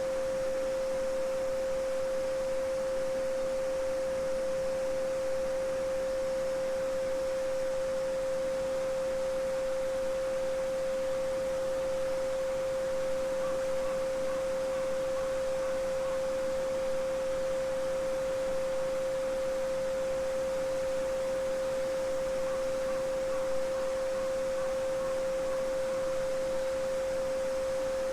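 A steady pure 528 Hz sine tone, held unbroken, over a faint hiss of babbling brook water.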